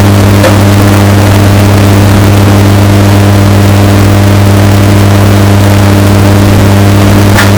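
Washing machine running with a steady low motor hum, bass-boosted and heavily distorted at near full loudness, with a faint click about half a second in and another near the end.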